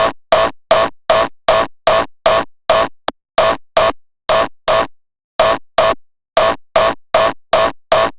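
Synthesized raw hardstyle kick drum looping at about two and a half hits a second, each hit a sharp distorted punch that dies away quickly. The loop breaks off for about half a second near the middle, then resumes.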